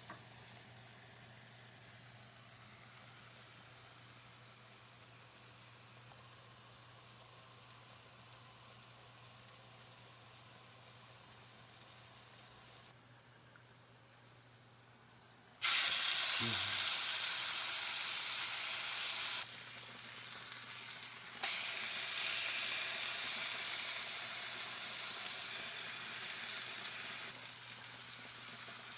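Faint steady hiss at first, then about halfway through a loud sizzle starts suddenly: food frying in hot oil in a pan. The sizzle drops back briefly, then comes back loud and eases a little near the end.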